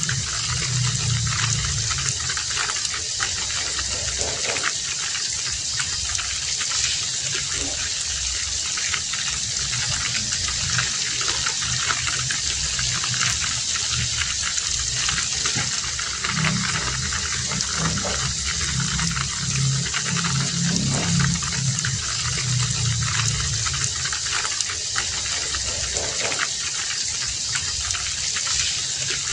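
Heavy rain falling steadily, a dense even hiss of drops with many small sharp patters. A low rumble swells and fades several times underneath.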